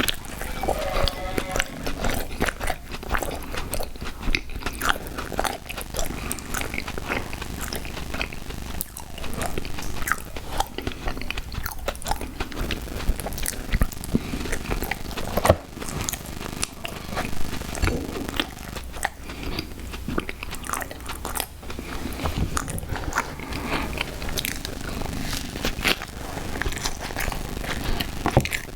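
Close-miked chewing and crunching of sour gummy worms cereal, with many irregular crackles and clicks.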